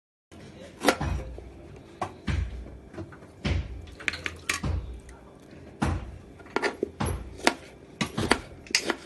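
Kitchen work: a string of irregular sharp knocks and clatters from utensils being handled, starting just after the beginning and coming faster toward the end.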